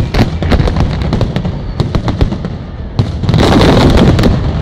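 Fireworks going off in a rapid, irregular series of sharp bangs and crackles; about three seconds in, a louder, denser burst lasts for about a second.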